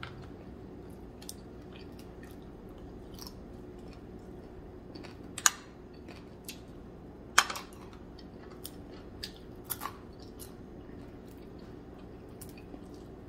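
A person eating by hand and chewing crispy fried dried squid: scattered short crunches and clicks, the two loudest about five and a half and seven and a half seconds in, over a faint steady hum.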